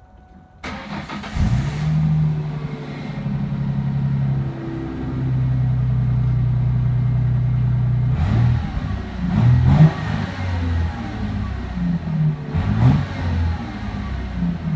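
The 3.9-litre V6 of a 2004 Ford Mustang starts about a second in and settles into a steady idle. It is then revved in short blips, about three times.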